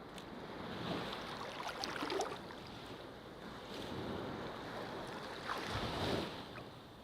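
Ocean surf breaking on a beach: two waves swell and wash in, one peaking about two seconds in and another about six seconds in, each with a crackle of spray over a steady wash.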